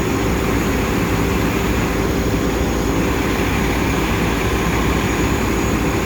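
Steady rush of wind on the microphone and street traffic while riding through city traffic, with a steady hum running underneath.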